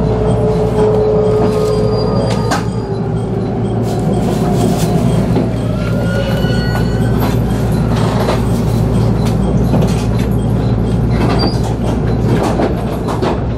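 Electric local train braking to a stop, heard from inside the car: thin squealing tones from the wheels and brakes come and go with scattered clicks and knocks, over a steady low hum of the train's running gear.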